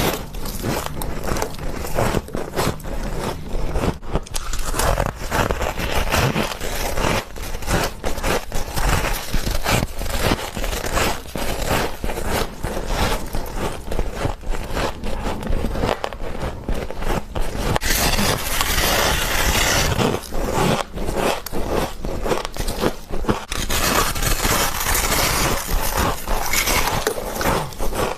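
Frost being bitten and chewed: dense, irregular crunching and crackling, with two longer, hissier stretches of grinding crunch in the second half.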